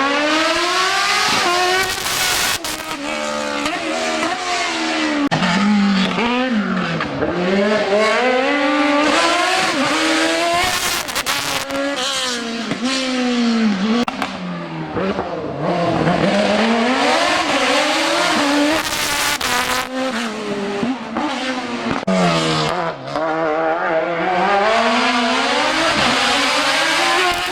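Racing car engine working hard, its pitch climbing again and again under acceleration and dropping back each time the throttle comes off, as the car accelerates and brakes between slalom chicanes.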